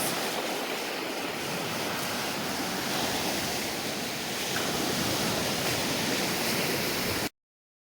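Waves washing steadily on a rocky lakeshore, with wind. The sound cuts off suddenly near the end.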